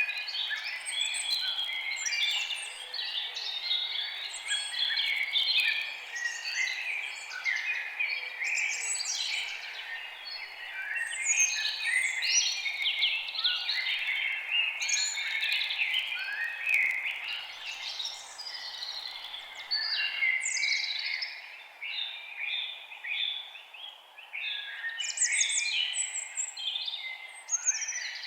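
Several songbirds singing and chirping at once in a dense, continuous chorus of short overlapping calls, over a faint steady background hiss.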